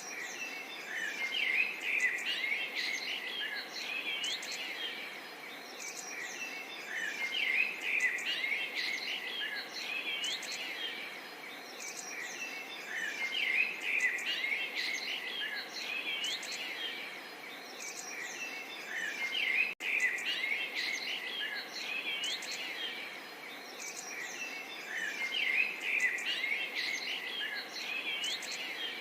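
Songbirds chirping and trilling in a busy chorus over a steady background hiss. The calls come in busier stretches about every six seconds, with a momentary dropout about two-thirds of the way through.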